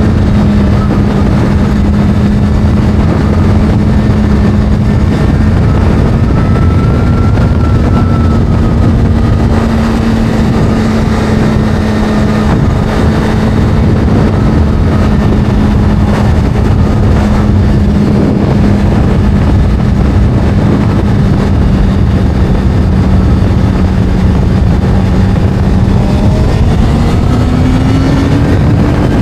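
Motorcycle engine running at a steady pitch while cruising, over a constant rushing noise. Near the end the engine note rises as it speeds up.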